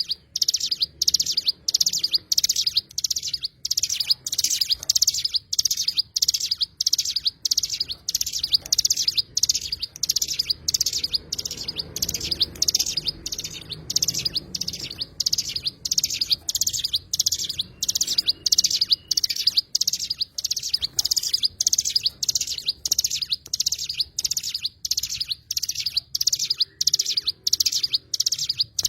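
A songbird known in Indonesia as the cigun chirping in a long, even series of short, high calls, about two a second.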